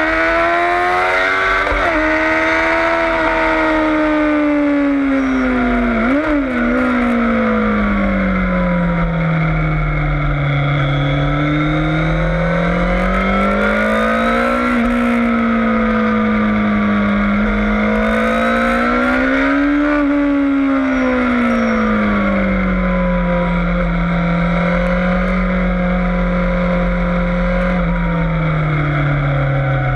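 Yamaha FZS600 Fazer's inline-four engine heard on board at track speed, its pitch climbing and falling every few seconds under acceleration and braking, with quick dips at gear changes about two and six seconds in and a drop to a lower note near the end. Wind noise runs under it.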